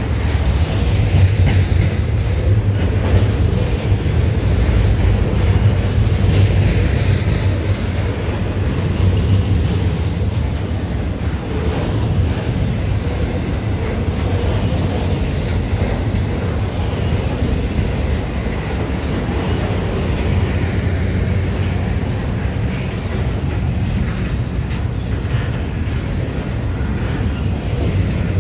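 Canadian National double-stack container freight train passing close by at steady speed. Its steel wheels rumble and clatter on the rails without letup.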